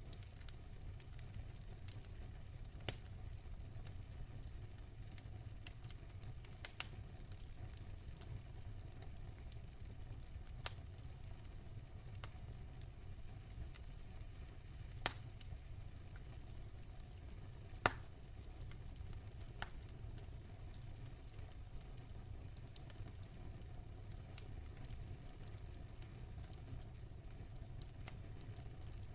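Campfire crackling: a steady low rumble of burning wood with irregular sharp pops and snaps, the loudest about 15 and 18 seconds in.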